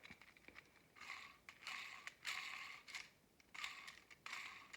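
Faint plastic rattling and whirring in several short bursts from the free-spinning parts of a Beyblade Burst Lucifer The End Drift top being spun by hand.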